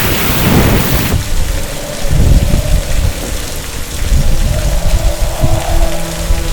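Heavy rain with rumbling thunder, opening with a sharp crack that lasts about a second. Low sustained music tones come in around the middle and hold to the end.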